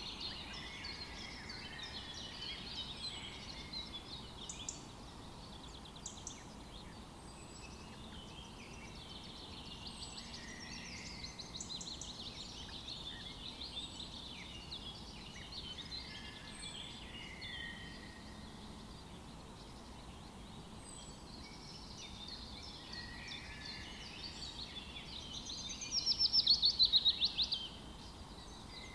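Several wild songbirds singing and calling together, a continuous layered chorus. A faint, high, short chirp repeats about every second and a half, and near the end one bird gives a loud, rapid trill lasting about a second and a half.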